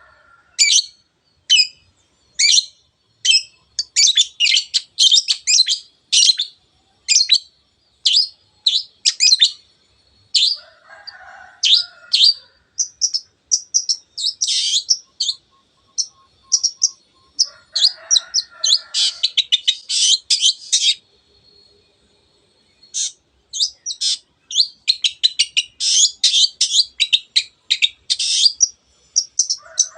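Long-tailed shrike singing: rapid runs of short, sharp, high-pitched chirps in loud bursts, broken by brief pauses. A few lower, harsher notes come about a third of the way in and again past the middle.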